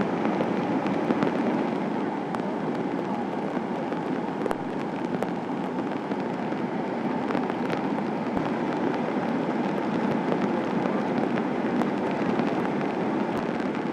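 Steady, loud roar of water from the typhoon flood and rain, with scattered crackling ticks through it.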